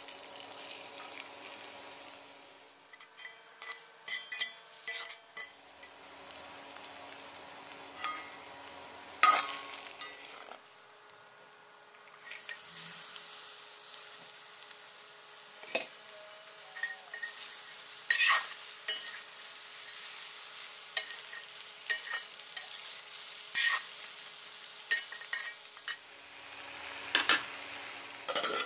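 Onion, then chopped okra and green chillies, frying in oil in a metal kadai: a steady sizzle, with a metal spatula scraping and clinking against the pan as the vegetables are stirred.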